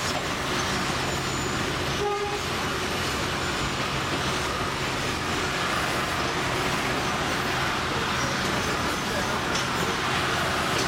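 St. Kitts Scenic Railway's narrow-gauge train running steadily, heard from an open-air passenger car: wheels on the rails and a low steady engine hum.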